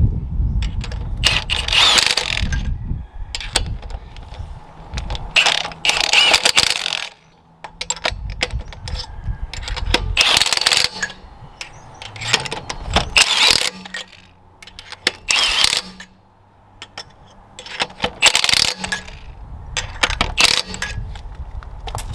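Metal hand tools clanking and ratcheting in short bursts every couple of seconds, typical of work putting a wheel back on.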